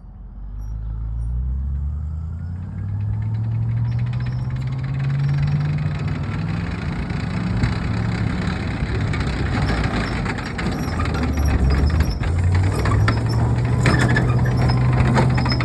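Tracked armoured personnel carrier's engine running and revving, its pitch rising over the first few seconds. From about halfway, a dense clatter of sharp cracks and crunches joins it, densest near the end, as the vehicle rolls over and crushes a microwave.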